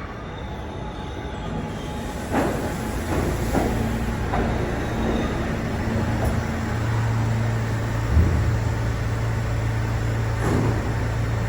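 A New York City subway train running through an underground station. Its wheels click over rail joints several times, and a low, steady motor hum grows louder about halfway through.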